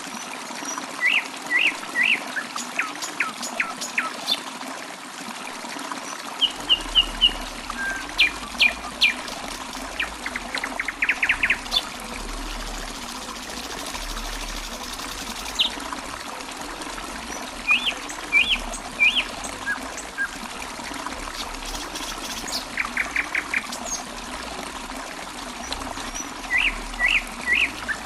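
Small songbirds chirping in short phrases of three or four quick notes, now and then a fast run of about ten notes, over the steady trickle of running water.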